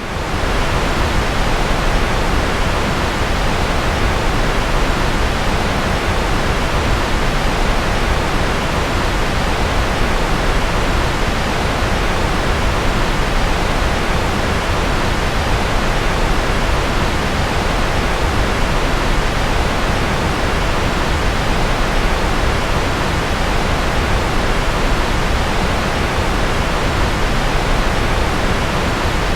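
Steady, unchanging rushing noise from a white-noise track made as rocket or jet engine noise, with no tones or separate events.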